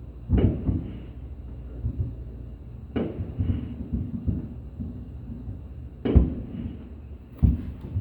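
Fireworks shells bursting in the sky: four loud booms a few seconds apart, each trailing off in a low rumble, with smaller pops in between.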